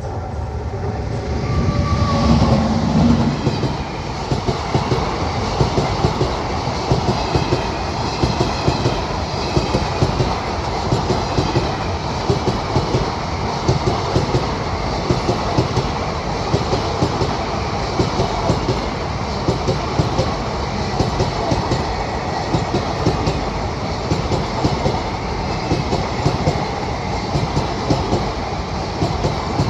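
Indian Railways parcel train passing close by, loudest about two to three seconds in as the front of the train goes by. After that the wagons roll past steadily, with a regular clickety-clack of wheels over rail joints.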